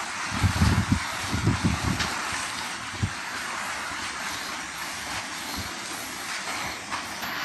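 Steady hiss of small waves breaking on the beach, with gusts of wind buffeting the microphone in the first two seconds.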